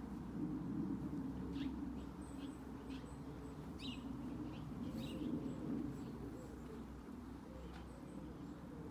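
Garden birds chirping: short, high chirps scattered through, over a continuous low background.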